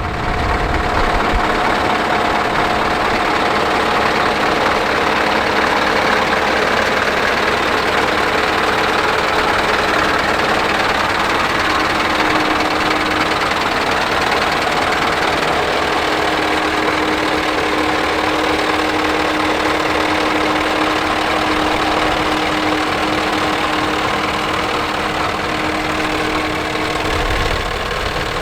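Scania R560's V8 diesel engine idling steadily, a continuous even running sound with a faint steady hum, easing off slightly near the end.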